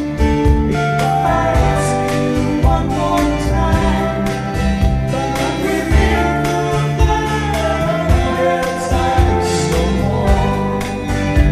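Music: a voice singing a melody over a karaoke backing track with a steady beat.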